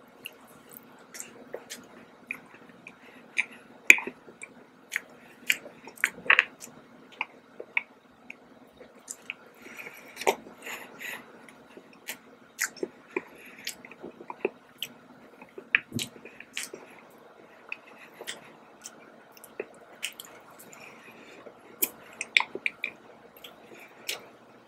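A person chewing a soft iced donut with the mouth close to the microphone: wet chewing with many short, sharp mouth clicks.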